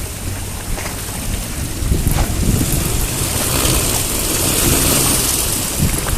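Storm wind gusting over the microphone aboard an anchored sailboat: a heavy low rumble with a steady high hiss that swells in the middle and eases again near the end.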